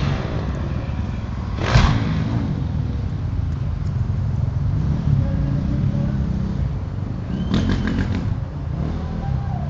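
Dirt bike engines at a motocross track, faint and rising and falling in pitch, over a steady low rumble. A loud, short burst of noise comes about two seconds in, and a few more close together near the end.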